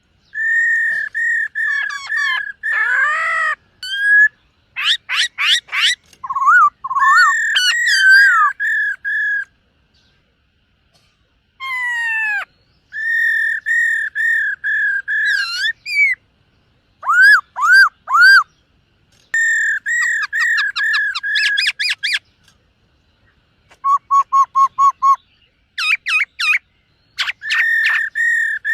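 Black-throated laughingthrush singing in loud whistled phrases, many built from quick runs of repeated notes mixed with sweeping notes, with brief pauses about ten seconds in and again near two-thirds through.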